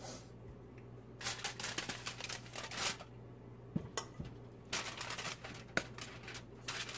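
Kitchen handling noises: a run of rustling and clattering about a second in, lasting a couple of seconds, then a few scattered clicks and knocks, over a steady low hum.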